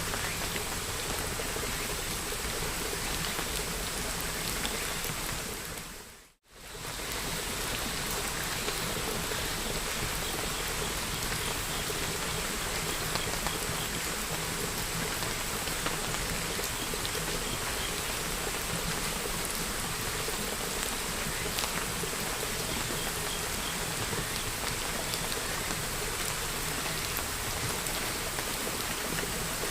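Steady rain falling on surfaces, an even hiss. About six seconds in it fades out to silence for an instant and comes straight back in.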